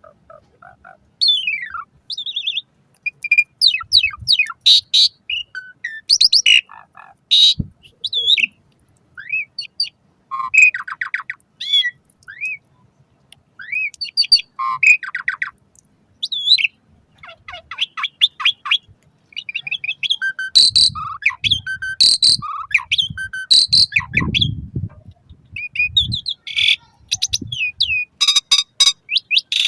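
Asian pied starling (jalak suren) singing a long, varied song of rising and falling whistles, chattering harsh notes and clicks in quick phrases. It starts about a second in.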